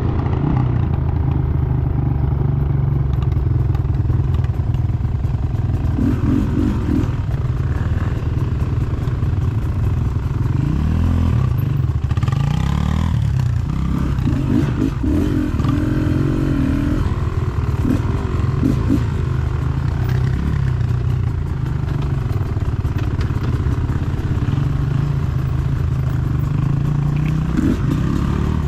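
Dirt bike engine running under way, its revs rising and falling several times.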